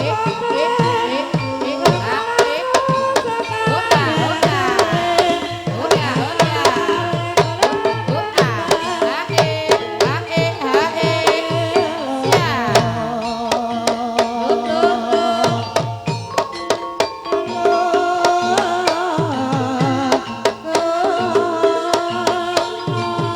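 Gamelan music accompanying an ebeg dance: kendang hand drums beating a dense, fast rhythm over tuned gamelan instruments, with singing weaving in and out.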